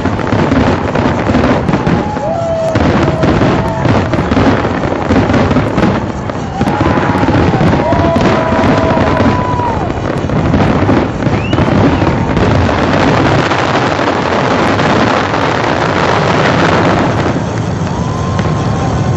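Fireworks display going off continuously in dense crackling bursts, with whistling tones gliding over it several times.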